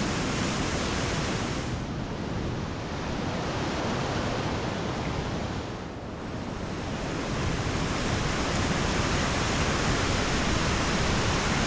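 Steady roar of a waterfall's rushing water, thinning briefly about two seconds and six seconds in.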